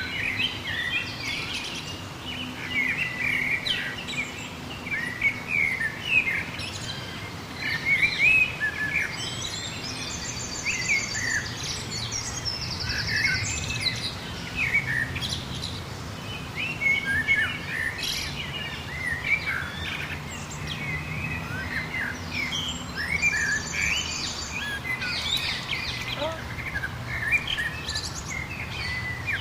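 Many songbirds chirping, whistling and calling over one another in a busy chorus. Twice, about ten seconds in and again past twenty seconds, a high rapid trill joins in.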